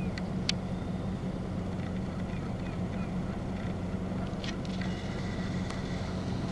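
Vehicle engine idling with a steady low hum, and a few sharp clicks.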